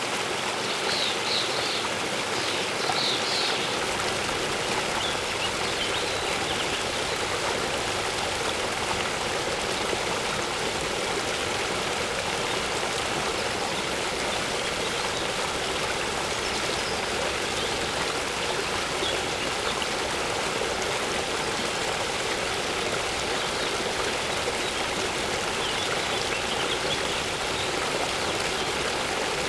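Steady rush of a waterfall, with a few quick bird chirps in the first few seconds and fainter ones later on.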